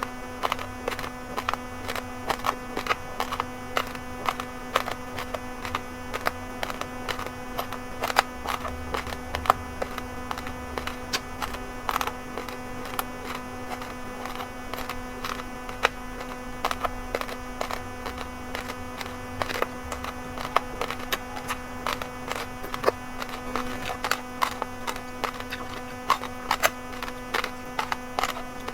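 Raw rice grains being crunched between the teeth: many sharp, irregular cracks and crackles, over a steady electrical hum.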